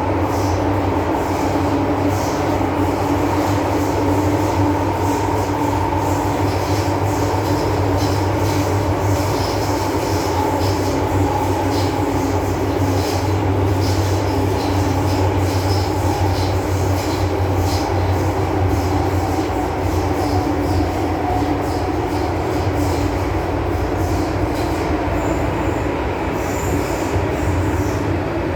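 MTR M-Train electric multiple unit running at speed between stations: a steady rumble of wheels on rail with a continuous hum, and scattered high-pitched ticks and squeaks.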